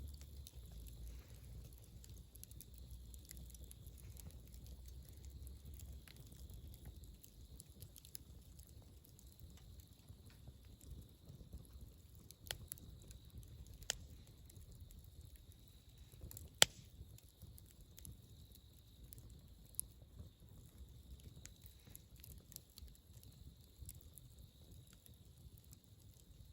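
Wood campfire crackling faintly, with scattered sharp pops, the loudest about two-thirds of the way through. A low rumble underneath fades out over the first few seconds.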